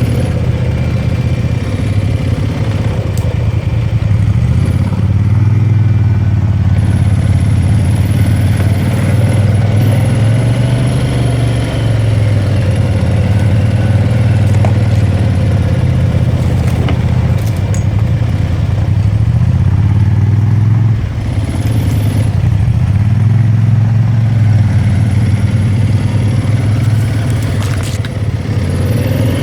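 ATV engine running under way off-road, its pitch rising and falling with the throttle and easing off briefly about two-thirds of the way through.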